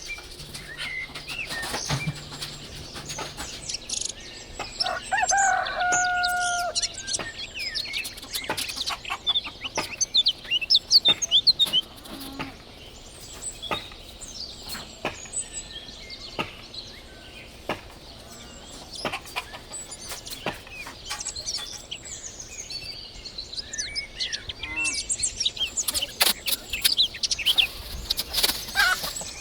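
Chickens calling and small birds chirping, with one longer held call about five seconds in and many sharp clicks and knocks throughout.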